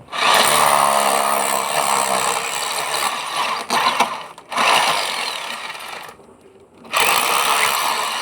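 Electric hammer drill running loudly in bursts of a few seconds, with two brief dips and a pause of nearly a second about six seconds in before it starts again.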